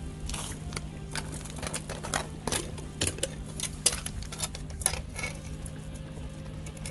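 Irregular sharp clicks and clatter of hard objects knocking together, several a second, over a steady low hum: the sound of a Dungeness crab and a plastic crab gauge being handled.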